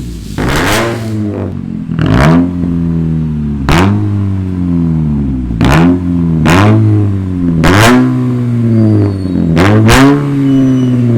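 Dodge Avenger engine revved through a straight-piped cat-back exhaust, resonator and muffler deleted with the catalytic converters kept. About seven quick blips of the throttle, each rising sharply and falling back to a steady idle, loud and raspy at the top of each rev.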